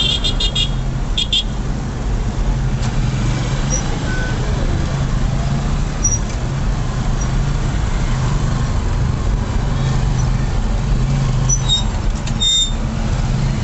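Steady low rumble of a car's engine and road noise, heard from inside the moving vehicle. Short high beeps sound at the start and once more near the end.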